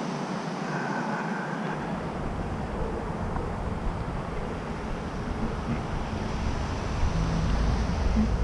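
Vehicle and road traffic noise: a steady hiss, with a low rumble that comes in about two seconds in and grows louder near the end.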